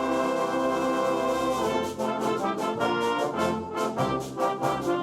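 High school concert band, brass to the fore, playing a loud held chord and then, from about two seconds in, short detached chords about three a second.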